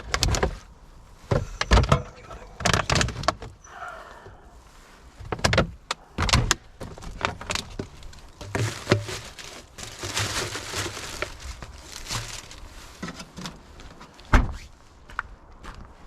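Someone handling things at a car: a string of separate knocks and clunks, with a few seconds of rushing, rustling noise about ten seconds in.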